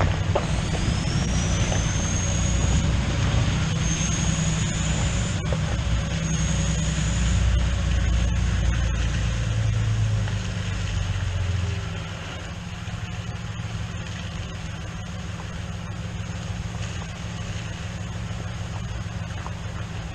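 Vehicle engine running steadily, dropping to a lower, quieter run about twelve seconds in. A high whine rises in pitch three times over the first several seconds.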